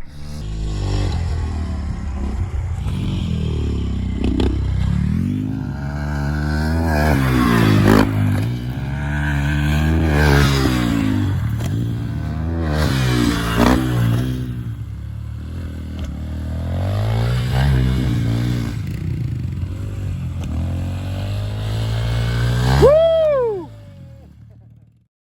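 Dirt bike engine revving up and down repeatedly while being ridden. Near the end it gives one sharp high rev that falls away, then the sound fades out.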